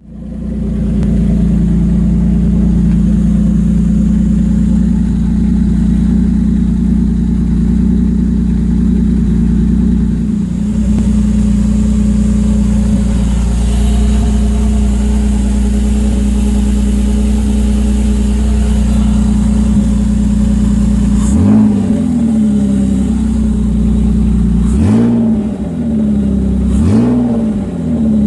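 Nissan VQ35DE 3.5-litre V6 with custom headers and a 3-inch Y-pipe and exhaust, idling steadily, then revved in three short throttle blips, each rising and falling back to idle, in the last several seconds.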